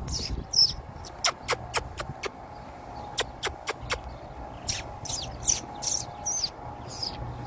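Birds calling in alarm to defend their nest: two quick runs of short, sharp high notes, then a series of longer, harsher calls.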